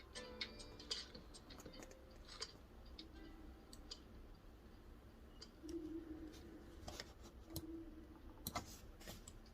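Faint, scattered light clicks and taps of small objects being handled at a desk while studying, with a few faint held tones underneath.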